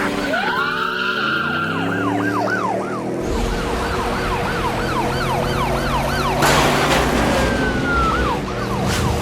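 Police siren on a fast yelp, rising and falling about three times a second, over a car engine whose pitch slides down in the first few seconds. A short rush of noise comes about six and a half seconds in.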